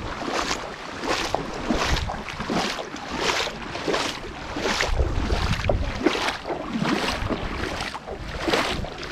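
Strong gusty wind buffeting the microphone, with a quick, fairly regular run of short rustling swishes, about two to three a second.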